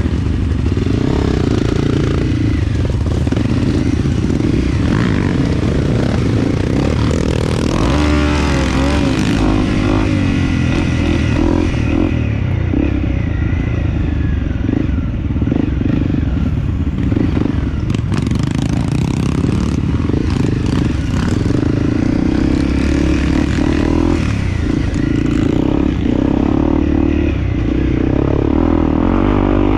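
Dirt bike engine running continuously while being ridden, its pitch rising and falling as the throttle is opened and closed.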